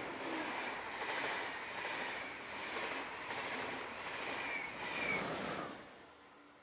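A train passing on the line, with a steady rolling noise of wheels on rails and a faint high squeal. It fades away after about five and a half seconds.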